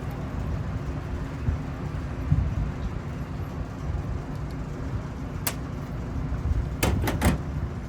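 A steady low rumble, with one sharp click about five and a half seconds in and three quick clicks in a row near the end.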